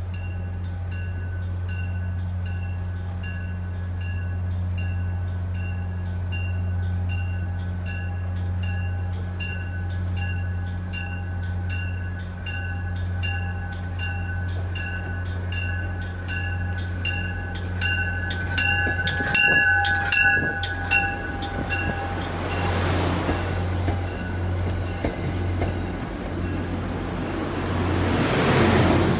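MBTA commuter train arriving: a warning bell strikes about twice a second over a steady low hum, for most of the time. Near the end the bell stops and the rumble of the passenger cars rolling past the platform rises.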